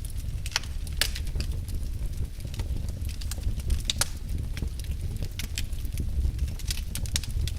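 Wood logs burning in a fireplace, crackling with irregular sharp pops over a steady low rumble of the fire.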